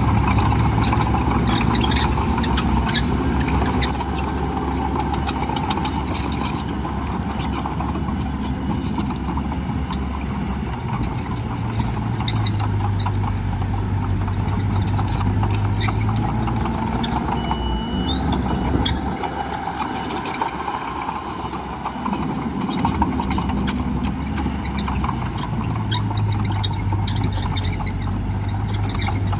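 Heavy diesel earthmoving machinery running, the engine note shifting up and down with load, with scattered metallic clanks.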